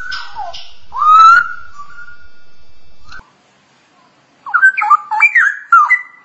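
Straw-headed bulbul singing: a loud whistled phrase about a second in, then, after a short gap, a quick run of rich warbling whistled notes jumping up and down in pitch.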